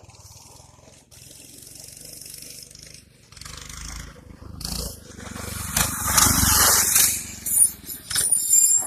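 196 cc single-cylinder mini bike engine running as the bike rides back, its pulsing growing louder over the second half, with a loud rush of noise about six to seven seconds in.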